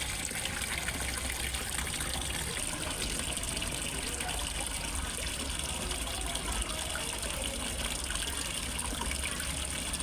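Water from a small pond waterfall falling steadily into a fish pond, a continuous even splashing and trickling with no breaks.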